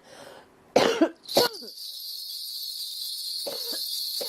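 A person coughs three times in quick succession about a second in. After the coughs a steady high-pitched hiss sets in and holds.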